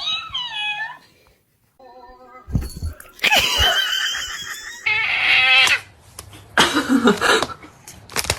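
A cat meowing at the start, followed by several loud, noisy stretches of cat yowling mixed with other sounds.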